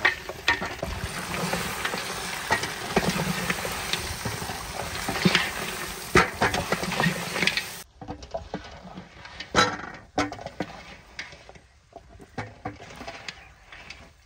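Goat trotters frying in oil in a large aluminium cooking pot, stirred with a wooden spoon: a steady sizzle with the clatter of bones and scrapes of the spoon. About eight seconds in, the sound drops abruptly to quieter, scattered knocks and scrapes.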